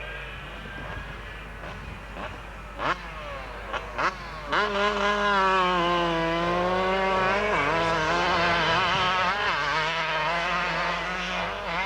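Motocross motorcycle engine: a few short throttle blips first, then from about four and a half seconds in a loud engine at high revs, its pitch rising and falling with the throttle.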